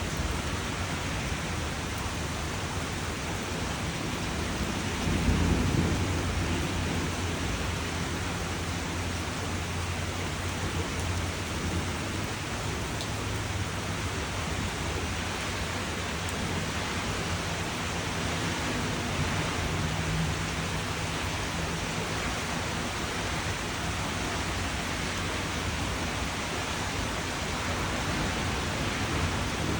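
Steady rain falling, an even hiss, with a low rumble underneath that swells briefly about five seconds in.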